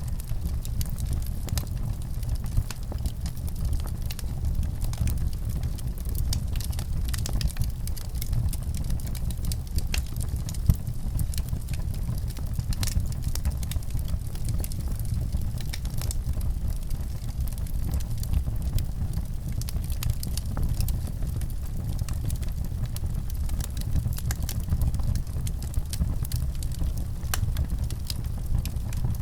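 Wood fire crackling in a fireplace: a steady low rumble with frequent sharp, irregular pops and snaps.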